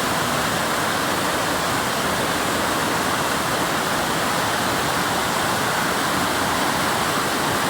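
Fast-flowing river rushing: a steady roar of moving water.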